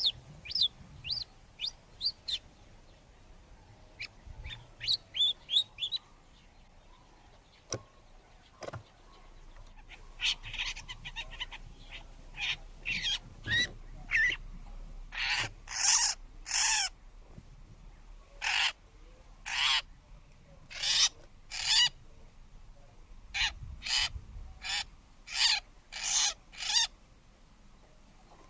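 Long-tailed shrikes calling at the nest. Quick high chirps come at first, then from about a third of the way in, a run of loud, short calls about once a second.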